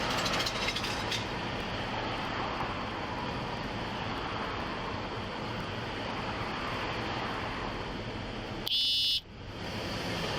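Steady street traffic noise, with wind on the body-worn microphone. About nine seconds in, a loud, high electronic beep lasts about half a second.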